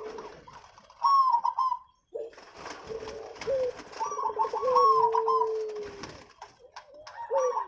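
Zebra doves (perkutut) cooing: repeated phrases made of a run of quick notes that ends in a long, held, slightly falling note.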